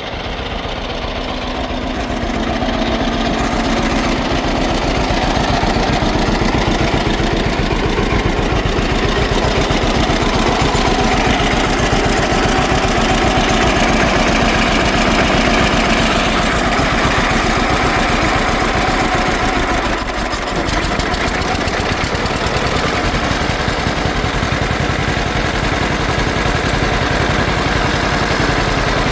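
Model B tractor engine running steadily at idle, a regular low firing beat, after long sitting and still in need of a tune-up. It grows a little louder over the first few seconds and dips briefly about twenty seconds in.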